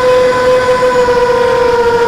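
Quadcopter's propellers and motors running with a steady, high-pitched hum over a rush of air noise.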